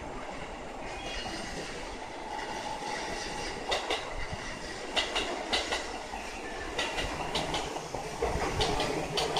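Coupled JR East E233-3000 and E231-1000 series electric commuter train pulling out, its wheels clicking over rail joints and points. The clicks grow louder and more frequent as the cars pass.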